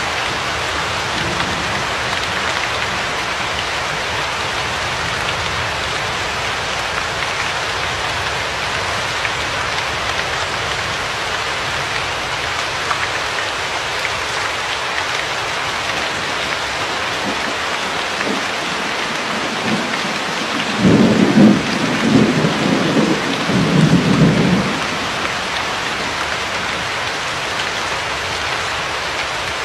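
Steady rain falling in an even hiss, with a roll of thunder about two-thirds of the way through. The thunder is a low rumble in several swells lasting a few seconds and is the loudest thing heard.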